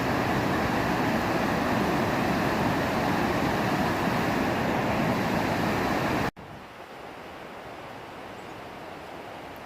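Floodwater rushing down a swollen brook and its cascades, a steady rush, running high after days of heavy rain. About six seconds in it cuts abruptly to a quieter stretch of the same rushing water.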